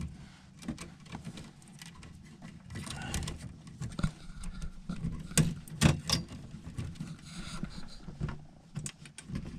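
Scattered clicks, taps and plastic knocks of hands working on a furnace control board, pressing wiring connectors and a personality module into place, over a low steady hum.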